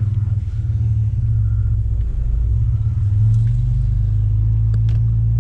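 Steady low rumble of a car or truck running and being driven, with a couple of faint clicks.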